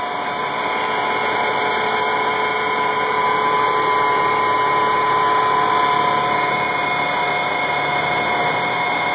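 M35A2C truck's six-cylinder multifuel turbo-diesel idling steadily soon after a cold start in freezing weather, with a steady whine over the engine noise.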